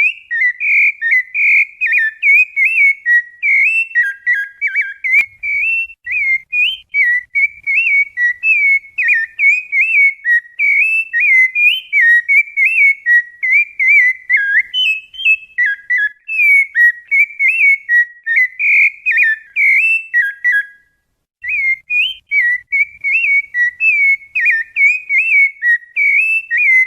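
Continuous bird-like warbling whistle: a rapid run of short, trilling notes that bend up and down, broken once for about a second past the middle.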